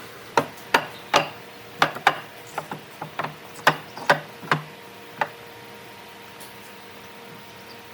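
About a dozen sharp, irregular knocks and clicks over the first five seconds, some in quick pairs, from wood pieces and tools being handled at a workbench. A faint steady hum lies under them.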